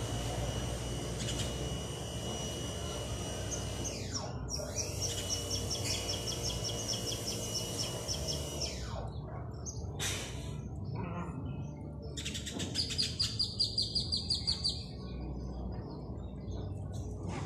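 Small birds chirping: quick high chirps repeating several times a second in the first half, then a fast run of about ten repeated chirps in the second half, over a steady low background rumble.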